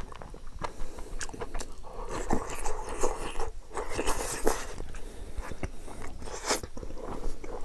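A person chewing and crunching food: curry, rice and a raw green bean. Irregular crunches come with wet mouth clicks throughout.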